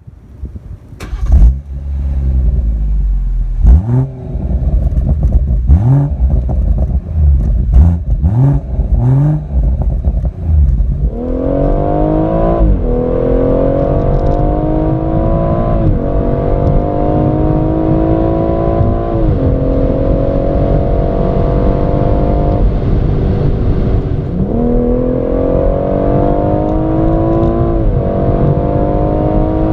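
BMW M140i's 3.0-litre B58 straight-six engine, first blipped in several short revs with sharp cracks between them. Then it runs at full throttle, climbing high in the revs through repeated quick upshifts of the automatic, the pitch dropping at each shift and climbing again.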